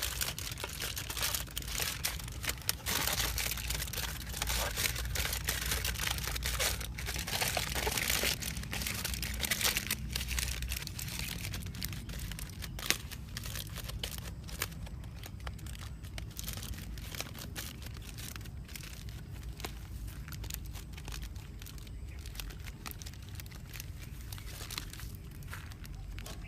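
Crinkling and crackling handling sounds, dense and busy at first and thinning out about halfway through to a quieter, steady background.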